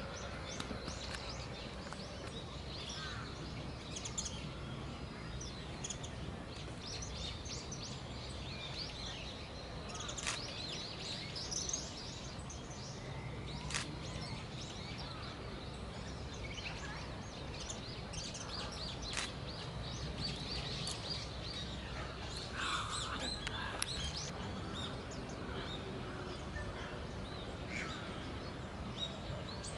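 Short, high, thin calls of common kingfishers, scattered through the stretch and coming in small clusters, over a steady low background rumble.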